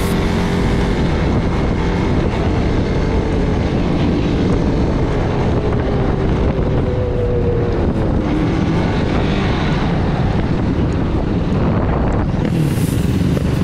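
Off-road vehicle engine running under way at steady throttle, its pitch shifting about halfway through, with wind buffeting the microphone.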